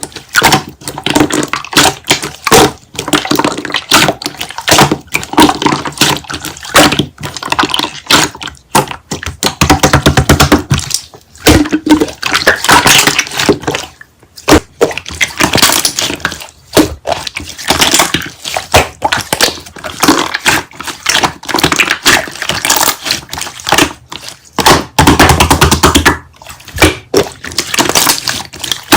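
Slime being squeezed, pressed and poked by hand, giving dense, irregular wet clicks, crackles and pops.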